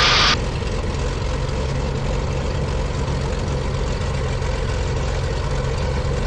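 Cessna T310R's turbocharged six-cylinder piston engines running steadily at low power on the landing rollout, with a short burst of hiss right at the start.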